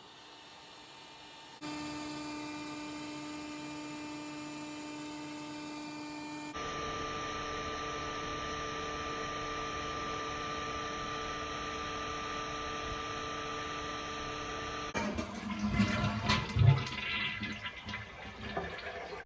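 A steady hum with a few fixed tones, broken by abrupt cuts, then a few seconds before the end a louder rush of churning water as a toilet is flushed.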